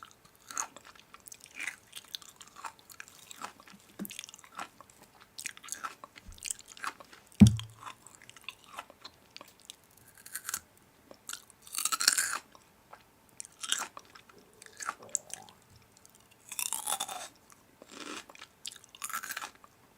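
Close-up chewing and crunching of crisp food, with many short crunchy clicks and a few longer bursts of crunching. One loud low thump about seven and a half seconds in.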